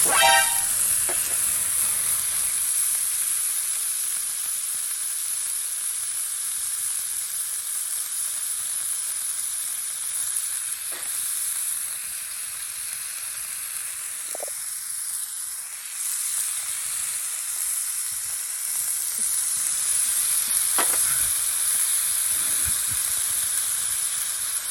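Food sizzling steadily in a frying pan over a campfire, with a few faint clicks now and then.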